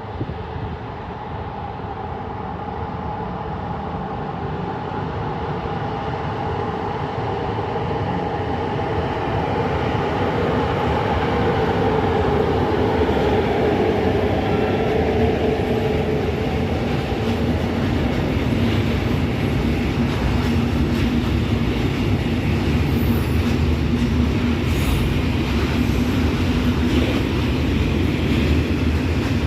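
A train coming into the station, its running noise growing louder over the first dozen seconds and then holding steady as it passes close. A rumble is overlaid with a steady whine that dips slightly in pitch midway.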